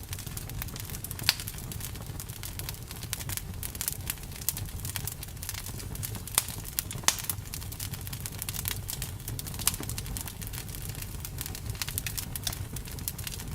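Campfire burning, wood crackling with frequent sharp pops over a steady low rumble. The loudest pops come about a second in and twice around six to seven seconds in.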